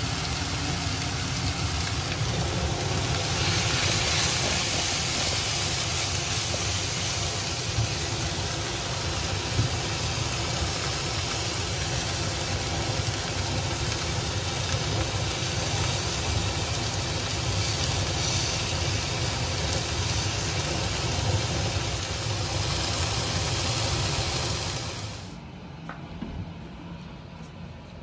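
Split prawns sizzling in a frying pan on a gas stove, over a steady low mechanical hum. A few seconds before the end the sound cuts to something quieter and duller.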